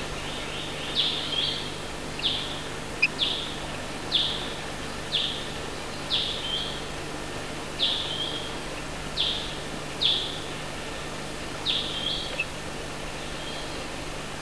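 A bird calling over and over, one short high note that falls in pitch, roughly once a second, with a faint steady low hum beneath.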